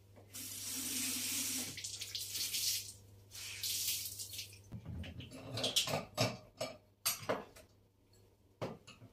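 Kitchen tap running into a sink in two spells, followed by a string of knocks and clatter from items being handled.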